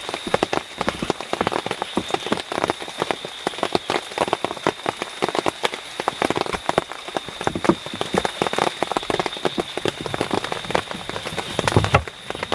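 Heavy rain falling, a dense, irregular patter of drops striking a surface, with a steady high-pitched tone running underneath.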